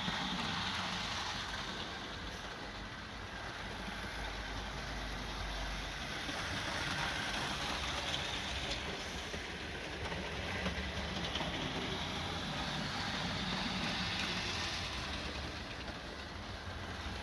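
Hornby model Mallard locomotive running on a model railway track pulling a rake of small trucks: a steady motor whirr and the rumble of small wheels on the rails, swelling and easing gently in level.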